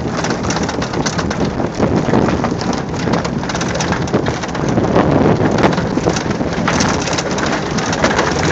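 Loud, steady rushing noise with dense crackling throughout, from a jon boat being towed along at speed like a sled, with debris spraying against the hull and wind on the microphone.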